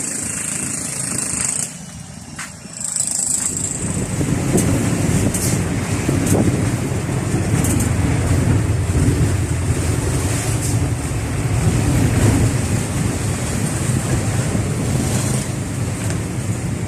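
Road vehicle noise: a steady low engine and road rumble, with a brief quieter dip about two seconds in.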